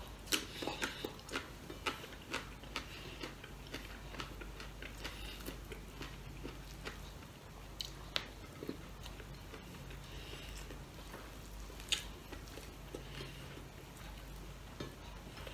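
Close-up chewing and wet mouth sounds of a man eating rice and pork adobo by hand, with many small clicks in the first few seconds. After that the clicks come more sparsely, with sharper ones about eight and twelve seconds in.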